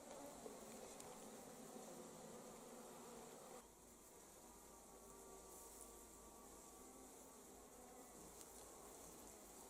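Faint, steady buzzing of many honey bees, dropping a little in level about three and a half seconds in.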